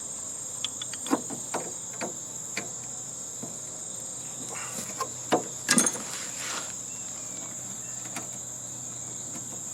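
Scattered clinks and knocks of tools and metal parts while a heating and air-conditioning unit is taken apart by hand, with a louder clatter a little past halfway. A steady high-pitched insect trill runs underneath.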